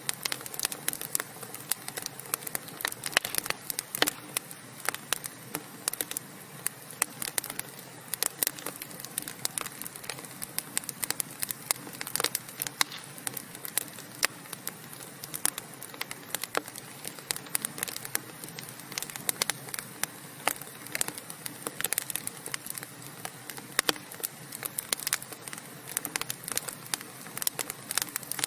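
Wood fire burning in a fireplace, with many irregular sharp crackles and pops, several a second, over a steady low hiss.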